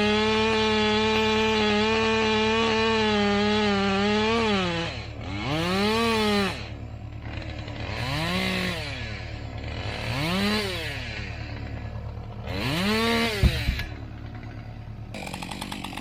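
Two-stroke chainsaw held at full throttle for about four seconds, then dropping off and revved up and back down four times. A sharp knock comes about two and a half seconds before the end.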